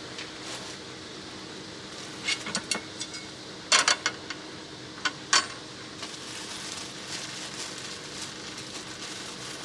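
A steady low hum, over which come a handful of short, sharp clicks and knocks in three small clusters between about two and five and a half seconds in.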